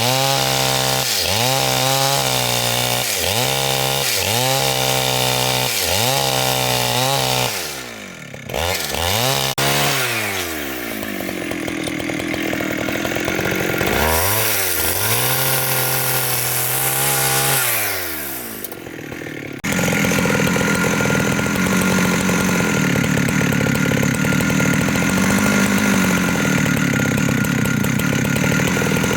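Two-stroke chainsaw cutting through large wood: for the first several seconds the engine pitch drops and climbs back about once a second as the chain bites, then after a few abrupt breaks it runs steadily under load.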